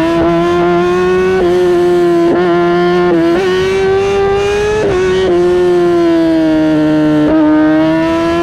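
Kawasaki ZX-10R's inline-four engine running at high revs through its exhaust, the pitch holding high with slight rises and falls and brief dips several times.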